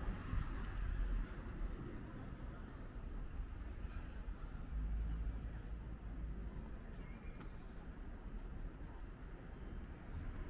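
A small bird chirping over and over: short high chirps about one to two a second, over a low steady rumble of the street.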